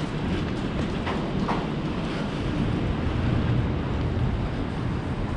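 Steady low rumble of a train on the elevated Northeast Corridor tracks.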